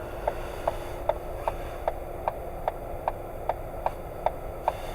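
Car turn-signal indicator ticking steadily, about two and a half clicks a second, over the low hum of the cabin while the car waits to turn.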